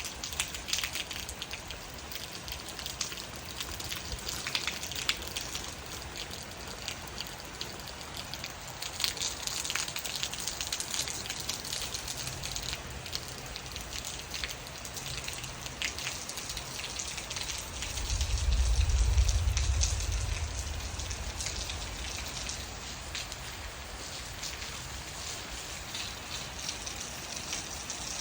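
Steady rain falling, with many individual drops ticking on surfaces. About two thirds of the way through a low rumble swells up, becomes the loudest sound, and fades away over a few seconds.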